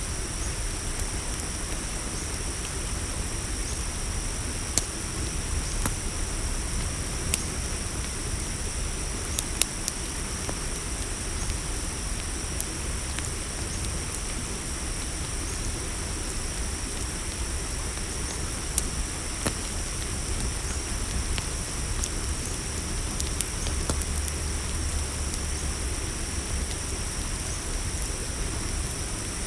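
Campfire crackling, with scattered sharp pops over a low rumble, under a steady high-pitched chorus of crickets.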